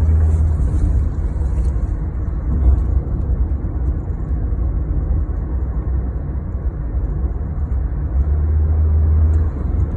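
Steady low rumble of a motor vehicle running, engine hum with road noise and no distinct events.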